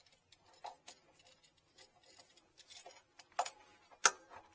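Irregular small clicks and taps of hand tools being worked, with two sharper snaps about three and a half and four seconds in.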